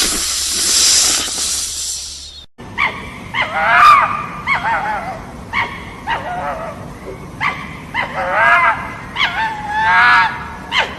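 A steady hiss that cuts off about two and a half seconds in, followed by an animal giving a run of short, high-pitched calls that bend up and down in pitch, about a dozen over the next eight seconds.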